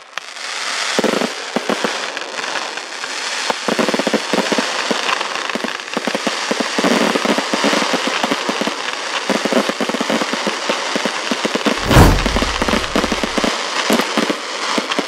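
Fireworks display with rapid launches and a dense crackle of many bangs and pops that runs on without a break. A deep boom about twelve seconds in is the loudest moment.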